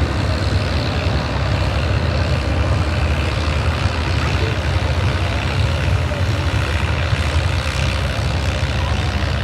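Antique farm tractor engine running steadily with a deep, even rumble.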